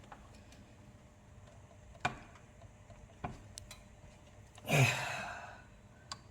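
A few sharp clicks, and about three-quarters of the way through a man's audible sigh, a breathy exhale falling in pitch, the loudest sound.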